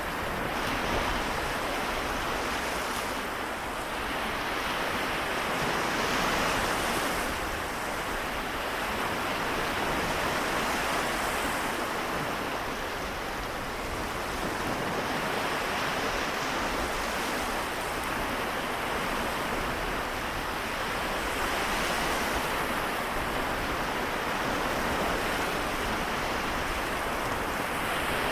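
Small waves washing ashore on the Seto Inland Sea, a continuous wash that swells and eases every few seconds.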